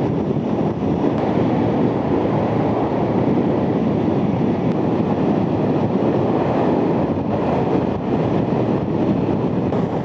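Steady wind rush and road noise on a motorcycle helmet camera's microphone while riding at road speed.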